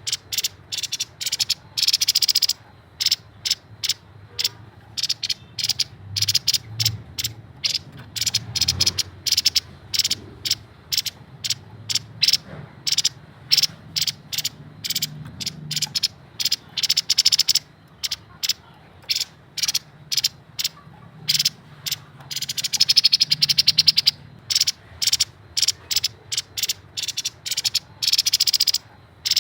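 Grey-headed babbler singing in rapid, dry chattering notes, many to the second, in short repeated bursts broken by a few longer unbroken runs, one a little past the middle and one near the end.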